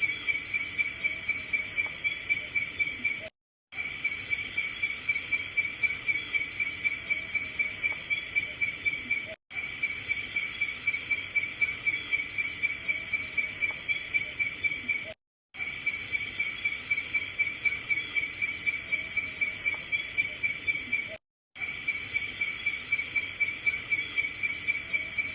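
Frog calling: a fast, evenly spaced run of high-pitched notes over a steady high insect drone. The sound cuts out completely for a moment about every six seconds, where the same short recording starts over.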